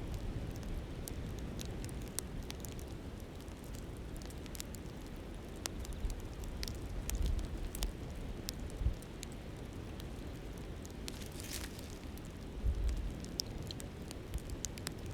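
Campfire crackling with scattered sharp pops over the steady hiss of a flowing river, with a few low gusts of wind on the microphone.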